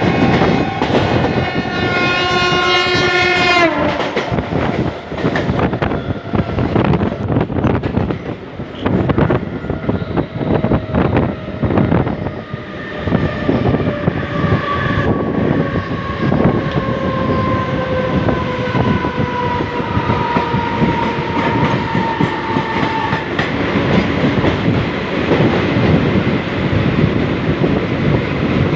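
Train running fast, its wheels clattering over rail joints. A horn sounds for about three seconds near the start. Later a long tone slowly falls in pitch for about ten seconds.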